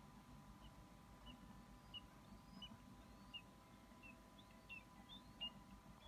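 Faint, short high chirps from a bird, about ten in a row spaced under a second apart and coming a little faster near the end, over a faint steady electrical hum.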